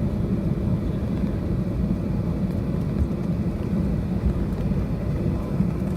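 Steady low cabin rumble of a Boeing 737-800 on the ground after landing, its engines and airframe heard from inside the passenger cabin.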